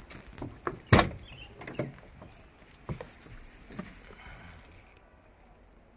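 A handful of short, sharp knocks and clicks, the loudest about a second in, over a faint steady hiss.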